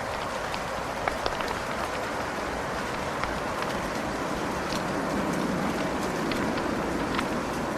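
Wood fire burning in a fireplace: a steady hiss with scattered sharp crackles and pops, and a low swell of rumble from about five seconds in.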